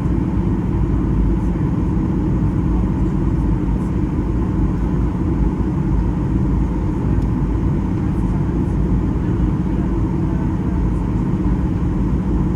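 Steady cabin noise inside a Boeing 737-800 airliner in flight: the engines and rushing airflow make an even, deep hum, with a faint steady tone above it.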